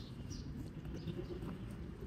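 A small bird chirping over and over in short, high, falling notes, about two or three a second, over a steady low rumble.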